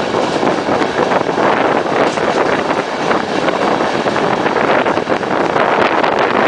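Passenger train running along the line, recorded from an open window: a steady rush of wind over the microphone mixed with the wheels rolling on the track.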